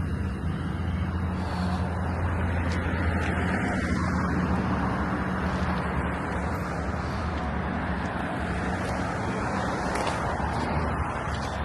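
A vehicle engine running steadily with a constant low hum, under a haze of street traffic noise.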